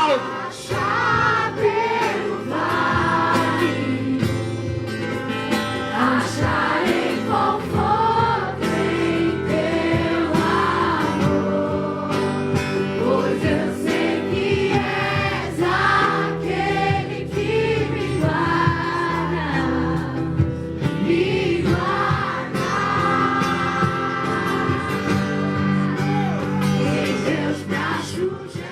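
Gospel worship music: a choir of voices singing over steady instrumental backing, cutting off at the end.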